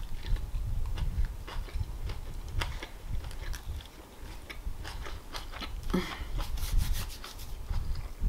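Close-up chewing and wet mouth clicks, with lettuce leaves rustling and crinkling as they are folded by hand.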